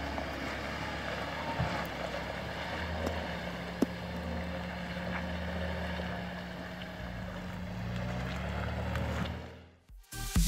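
Off-road SUV engine running steadily, with water flowing in a muddy stream over it and some wind on the microphone. All of it fades out about a second before the end.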